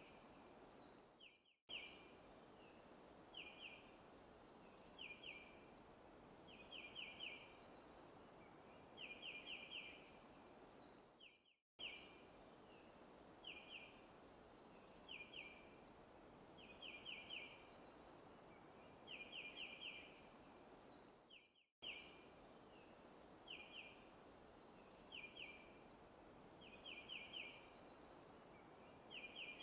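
A small bird chirping in short groups of one to four quick high notes every second or two, over a soft steady hiss of forest ambience. The sound cuts out briefly three times, about every ten seconds, where a looped recording restarts.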